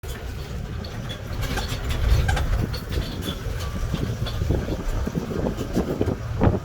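Low, steady rumble of a vehicle on the move, with scattered light clicks and knocks.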